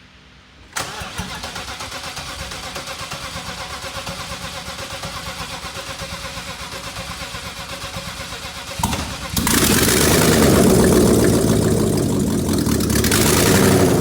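BMW 550i V8 engine starting about a second in and running with an even pulse. About nine seconds in it gets much louder and keeps running.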